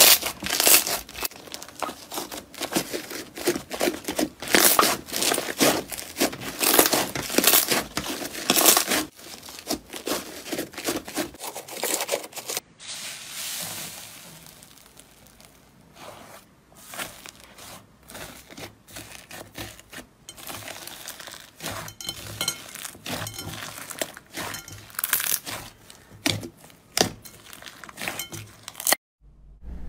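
Crunchy slime being squeezed and pressed, giving many quick crackles and crunches, in a run of short clips with brief breaks between them.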